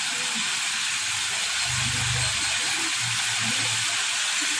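Chicken drumsticks frying in shallow vegetable oil in a wok: a steady sizzle.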